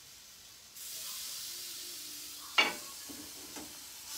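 Chicken sizzling in a frying pan on the stove. The sizzle turns suddenly louder about a second in, and a sharp clack comes a little past halfway.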